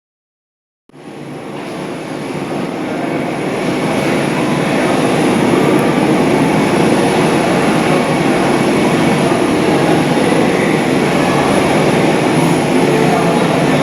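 McDonnell Douglas MD-82 jetliner's rear-mounted Pratt & Whitney JT8D turbofans running at high power, a loud steady jet noise with a thin high whine over it. The sound comes in suddenly about a second in and grows louder over the next few seconds before holding steady.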